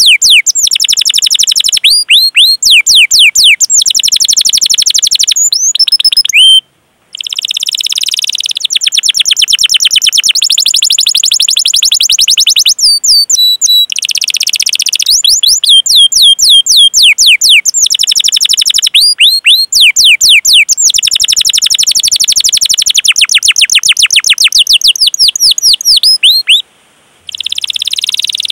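Domestic canary singing loudly: long runs of rapid, repeated high chirping notes ('cuit cuit') and fast rolling trills, broken twice by a brief silence.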